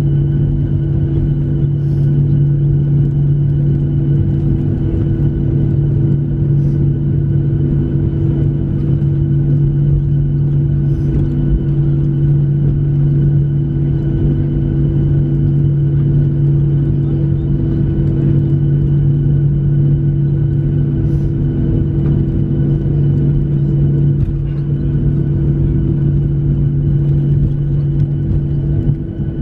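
Steady cabin hum inside a Boeing 737-700 on the ground after landing, from the idling jet engines and cabin air, with a few faint ticks.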